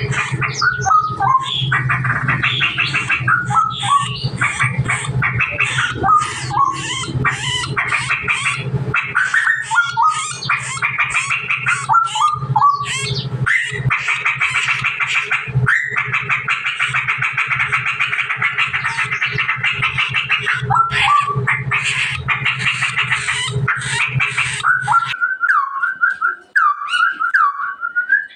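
Straw-headed bulbul (cucak rowo) singing nonstop: fast chattering runs and trills mixed with repeated short falling whistles. A steady low hum runs under it and stops about 25 seconds in, after which the song turns to a smoother warbling phrase.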